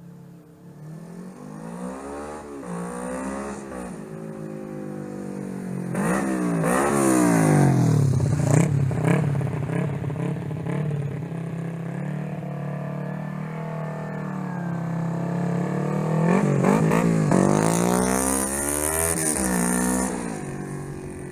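A 2004 Kawasaki Ninja 250's parallel-twin engine idling through an aftermarket slip-on muffler and being revved. There is a short blip a couple of seconds in, then two higher revs about six and sixteen seconds in, each rising in pitch and falling back to idle.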